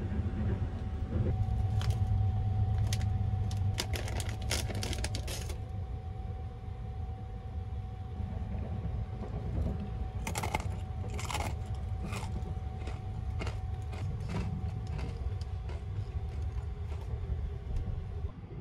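Steady low rumble of the Sunrise Seto sleeper train running, with a thin steady hum over it. Sharp metallic clicks and clinks come in two clusters, about four seconds in and again about ten seconds in.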